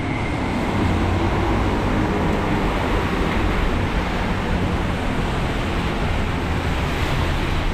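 Steady wash of rain and city street traffic, with a constant low rumble underneath.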